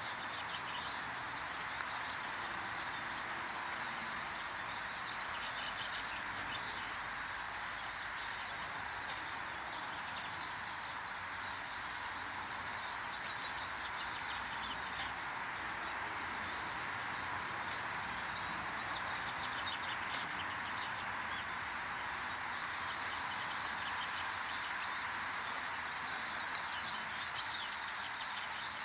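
Small wild birds giving short high chirps every few seconds, clustered around a third of the way in, the middle and two-thirds of the way in, over a steady hiss.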